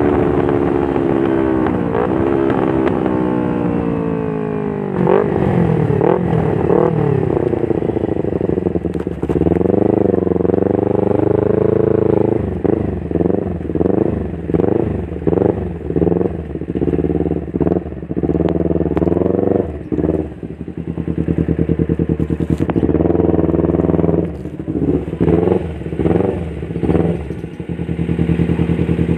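Kawasaki Ninja 250 FI parallel-twin engine breathing through an aftermarket Pure Sound R9 H2 titanium silencer on a Prospeed header, free-revving. The revs fall away from high at the start, then it is blipped over and over, with one longer rev and quick runs of blips, settling back to a steady idle about twenty seconds in and again at the end.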